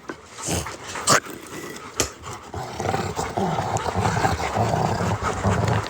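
A few sharp clicks, then from about halfway in a large dog growling low and steadily.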